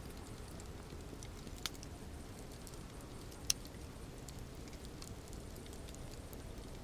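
Campfire burning with a steady low rush and scattered crackles, two sharper pops standing out, the loudest about halfway through.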